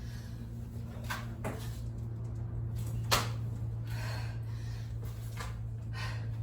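A person doing a push-up and kick combo: short hard breaths about once a second and knocks of hands and feet on the floor, with one sharp knock about three seconds in, over a steady low hum.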